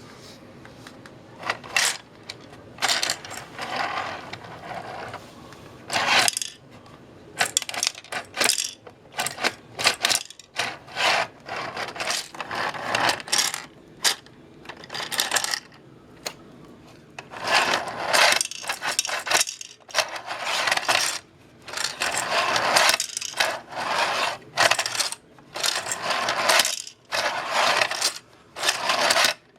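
Tyco No. 959 plastic tractor loader worked by its hand lever: repeated plastic scraping and clicking as the tractor slides along its track, with small plastic beads standing in for coal clattering as they are scooped and tipped into the car.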